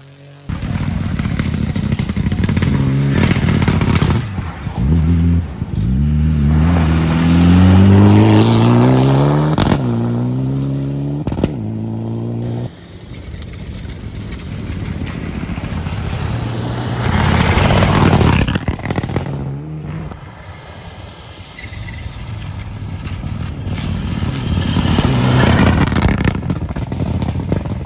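Rally cars on a gravel stage going past one after another, engines revving hard and climbing in pitch through several gear changes, with gravel scraping and clattering under the tyres.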